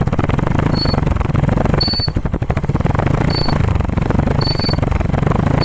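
Motorcycle rear drum brake squeaking in short high chirps, roughly once a second, as the brake pedal is pressed on the spinning rear wheel, over the steady noise of the running bike. The squeal comes from the brake shoes rubbing in the drum, the fault to be fixed.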